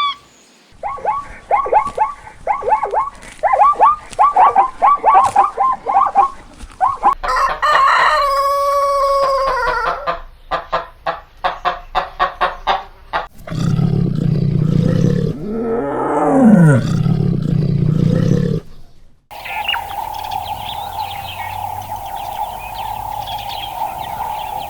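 A run of farm-animal sounds: rows of short, quick chicken calls, then a rooster crowing once about eight seconds in, followed by rapid clicking, a louder low, noisy stretch with a falling call, and a steady drone in the last few seconds.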